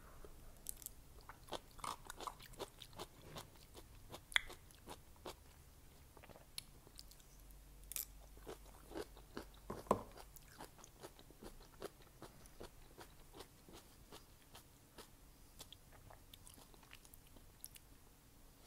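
Close-up eating sounds: chewing thick, chewy glass noodles and kimchi, a steady run of small wet mouth clicks and crunches. Two sharper knocks stand out, one about four seconds in and a louder one about ten seconds in.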